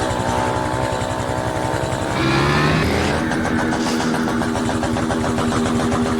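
Motorcycle engine running hard, revving up sharply about two seconds in and then holding steady at high revs.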